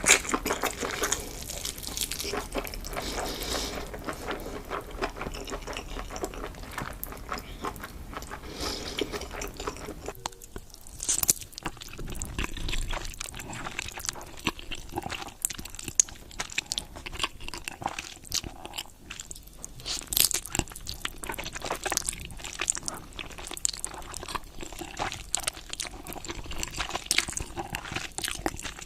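Close-miked eating sounds: crunchy bites and chewing. The sound changes abruptly about ten seconds in, from a dense crackle to separate sharp crunches.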